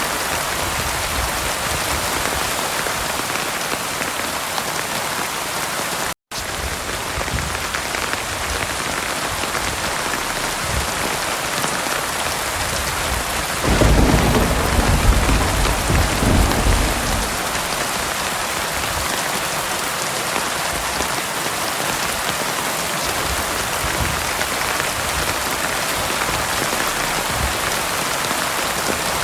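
Heavy rain pouring steadily. A low rumble of thunder rolls in about fourteen seconds in and lasts about three seconds. The sound cuts out completely for a split second about six seconds in.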